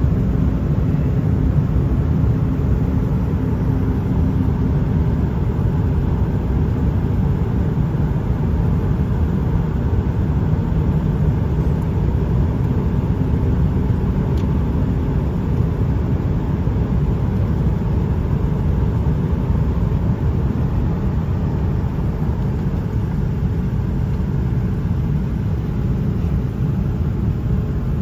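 Airliner cabin noise in flight: a steady, loud rumble of the jet engines and the air rushing past the fuselage, with a faint hum that fades out about ten seconds in.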